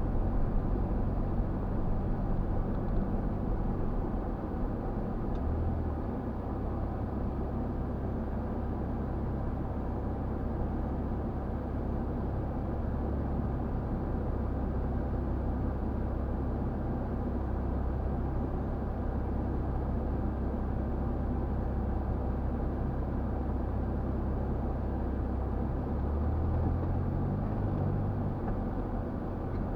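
4x4 vehicle driving off-road, its engine running steadily under a constant drive noise. The engine note shifts about six seconds in and again near the end.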